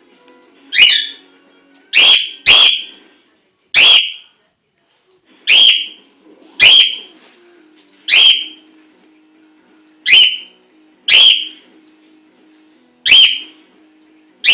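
Pet parrot making loud, shrill calls over and over, about eleven short calls spaced roughly a second apart.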